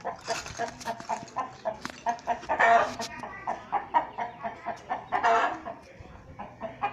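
Chickens clucking in a quick repeated run of short calls, with two louder, harsher squawks about three and five seconds in.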